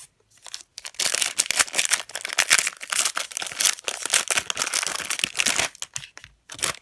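A football trading-card pack wrapper being torn open and crinkled, a dense crackling for about five seconds, followed by a couple of short clicks near the end.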